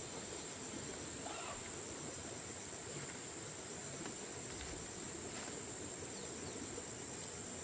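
Steady, high-pitched insect chorus, one continuous shrill drone, with a faint short chirp about a second in.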